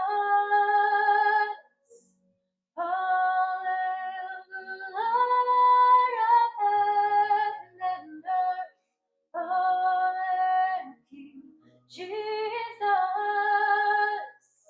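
A woman singing a worship song: long held notes in phrases broken by short silent pauses, with nothing else heard between them.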